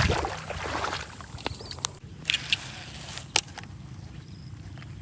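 Rustling handling noise that fades out, then a few sharp clicks, the last one the loudest, over a quiet background.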